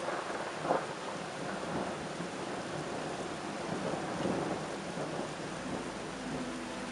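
Heavy rain falling hard with thunder rumbling through it, and one brief louder clap under a second in. Music fades in near the end.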